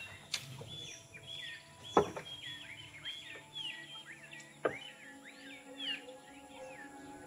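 Small birds chirping in a busy run of short, quick calls, broken by a few sharp knocks, the loudest about two seconds in. A low held tone of background music comes in faintly past the middle.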